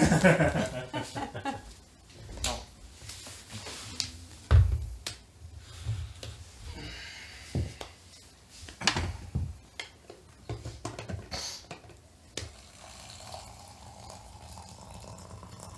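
Teacups and teaware being handled, with scattered clinks and knocks on a table and a heavier thump about four and a half seconds in.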